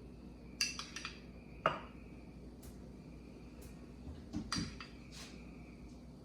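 A spoon clinking and knocking against glass mason jars while peanut butter is spooned into jarred yogurt. There is a quick run of clinks in the first second, a single knock near two seconds, and another few clinks after four seconds.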